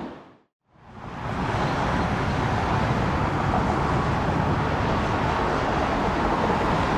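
Sound fades out to silence within the first second, then a steady rushing jet aircraft engine noise fades in and holds.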